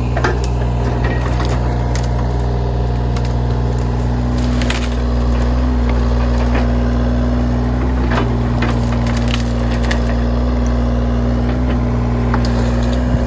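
Trees being torn down by a working machine: wood cracking and splintering in scattered snaps over the steady running of the machine's engine.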